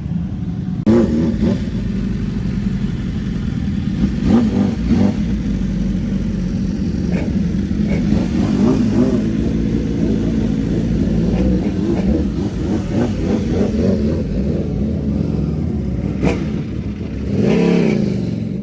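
Superbike engines revving in short rising-and-falling blips over a steady low engine drone, with a bigger rev near the end.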